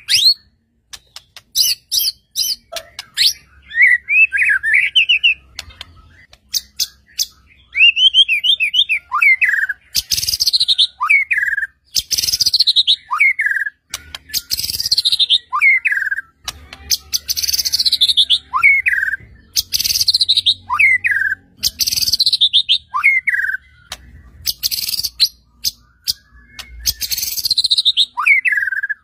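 White-rumped shama (murai batu) in full song. Sharp clicks and quick warbling trills come first, then a phrase repeated over and over about every second or two: a fast falling sweep that drops into a short lower whistled note.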